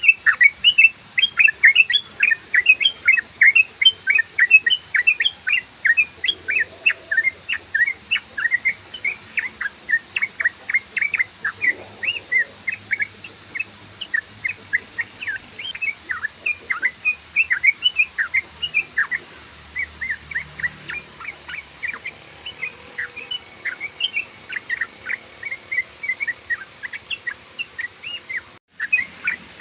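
Sooty-headed bulbul (trucukan) singing its rapid 'ropel' chatter: a fast, unbroken run of short, sharp high notes, several a second. The run breaks off briefly near the end.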